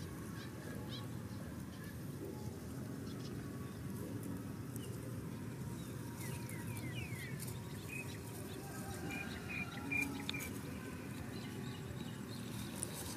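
Outdoor ambience: steady low background noise with a few short, high bird chirps clustered about halfway through.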